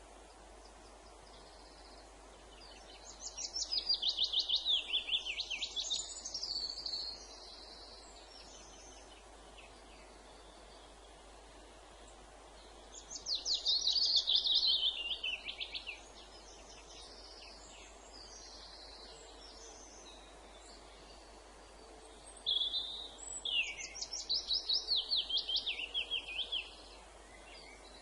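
A songbird singing three phrases, each a rapid run of high notes sliding downward, spaced roughly ten seconds apart.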